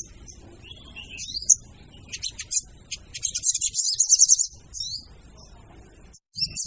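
Sogon birdsong, the female's call used as a lure: short, high chirps and quick glides, then a fast high trill a little past the middle.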